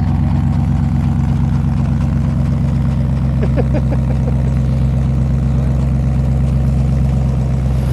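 Car engine idling close by: a loud, steady low exhaust note with an even pulse that holds one pitch throughout.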